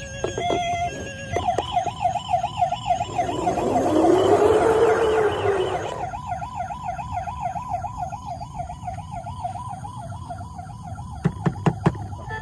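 Electronic toy siren warbling quickly and steadily, about four wobbles a second. In the middle a swelling whoosh with a rising-then-falling tone rises over it, and a few sharp clicks come near the end.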